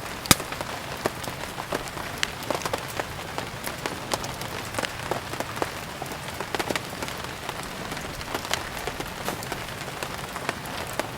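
Steady rain hiss mixed with a wood fire crackling: many sharp pops scattered throughout, one loud pop just after the start.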